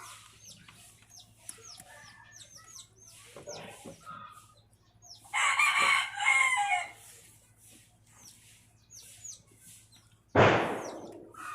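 A rooster crowing once, about five seconds in, over small birds chirping. Near the end, a sudden loud knock that dies away over about a second.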